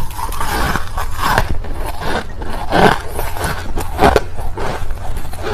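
Crushed ice being chewed close to the microphone: a run of crisp crunches, roughly one or two a second.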